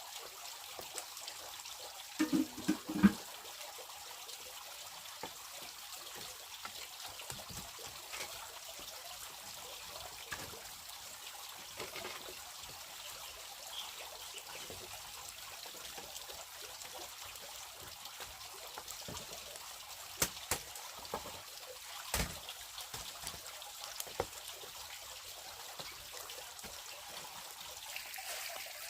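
Water trickling steadily, broken by a brief cluster of knocks about two to three seconds in, the loudest sound here, and a few sharp clicks near twenty seconds.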